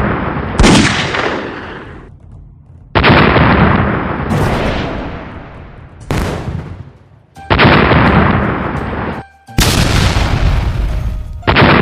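A string of loud firecracker explosions, about six sudden bangs a second or two apart, each trailing off in a rumbling echo.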